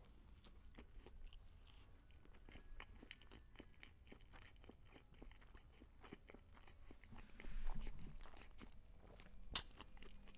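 Close-miked chewing of a bite of McDonald's crispy chicken sandwich: many soft crunches and mouth clicks. A brief louder hiss comes about seven and a half seconds in, and a sharp click near the end.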